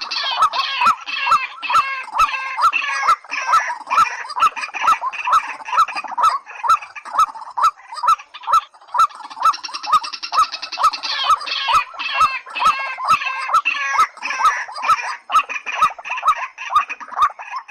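Rails calling: a fast, unbroken series of loud, repeated pitched notes, about two or three a second, with sharp clicks running through it. The calls fall away at the very end.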